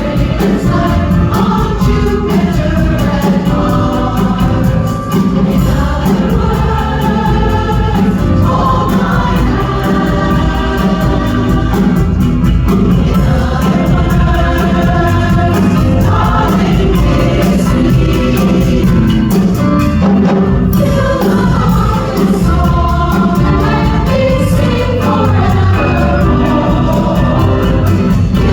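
A women's chorus singing a song in several parts, over a steady instrumental accompaniment.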